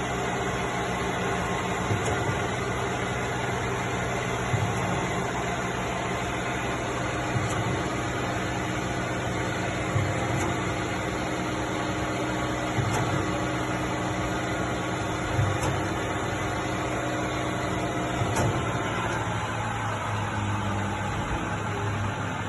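Busch NF102 keyway milling machine running: a steady motor and gearbox hum with a short knock about every two and a half seconds. Some of the humming tones drop away near the end.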